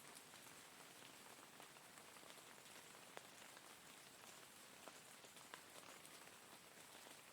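Steady, faint rain: an even hiss of rainfall with single drops ticking here and there.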